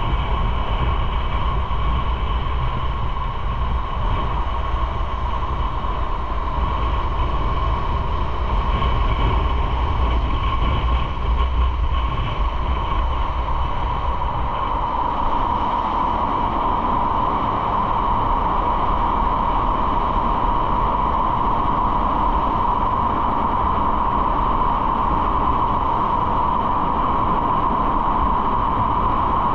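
Motorcycle riding at steady speed: engine and road noise run continuously, with a steady whine that grows louder about halfway through.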